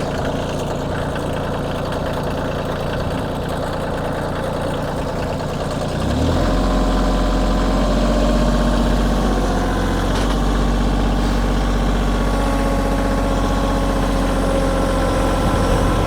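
Kioti tractor's diesel engine running under load while pulling a gravel drag. About six seconds in, the engine note rises and gets louder as the tractor is put into high gear, then holds steady.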